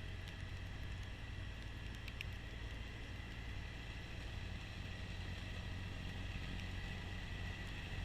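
Kubota B2650 compact tractor's three-cylinder diesel engine running steadily under load, driving its front-mount snowblower, with a steady high whine over the low engine drone.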